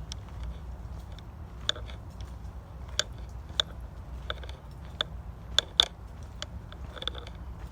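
Footsteps on a forest dirt trail: irregular sharp crunches and snaps, roughly one every half second to a second, over a steady low rumble.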